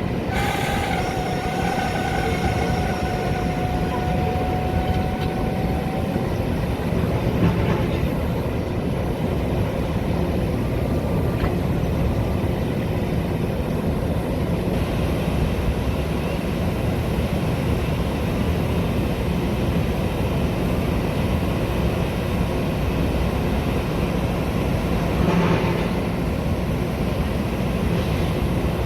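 Metra commuter train running with a steady rumble on the rails. A faint high squeal in the first few seconds dies away, and there are a couple of brief knocks.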